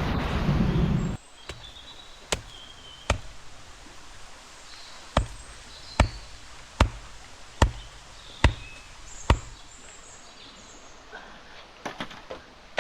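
A loud rushing noise cuts off about a second in. It is followed by a run of sharp knocks or chops, about one every 0.8 seconds, with faint high chirps in the background.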